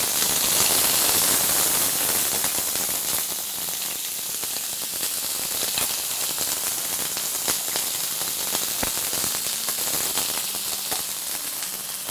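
Water-soaked diced potatoes sizzling in smoking-hot oil in a frying pan, with a steady hiss full of small crackles and pops. Loudest as the potatoes go in, easing a little after about two seconds.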